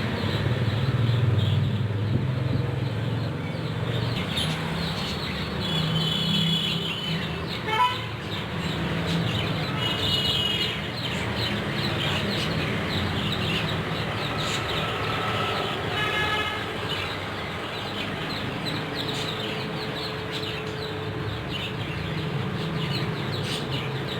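Pet-shop birds calling now and then, a handful of short high chirps, over a steady background rumble of traffic.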